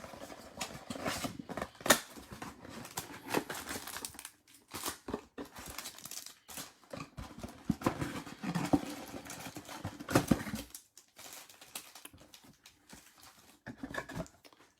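Packaging of a 2020 Topps Chrome mega box being torn open and handled: irregular crinkling and tearing of wrapper and cardboard, with scattered small clicks.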